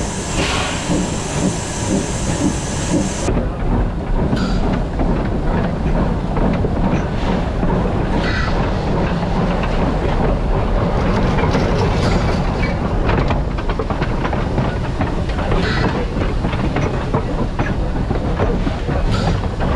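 Steam train running along the track, wheels clicking and knocking over the rail joints under a steady low rumble. A high hiss that is there at the start stops abruptly about three seconds in.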